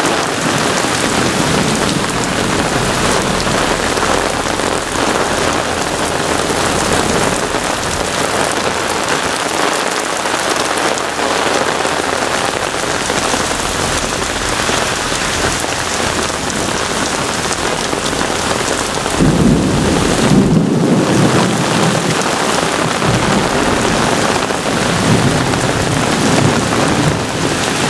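Heavy rain pouring steadily in a severe thunderstorm. About two-thirds of the way through, a low rumble of thunder comes in suddenly and rolls on for several seconds.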